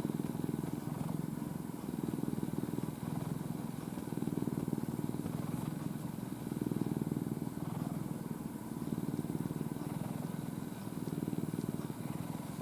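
Domestic cat purring at full throttle, a rapid rumbling purr that swells and eases with each breath about every two seconds.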